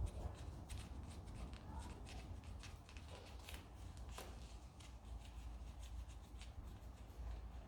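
Faint rustling and scattered light clicks of hand work on a tyre puncture repair, trimming the leftover repair-plug strip with a blade, over a low steady hum.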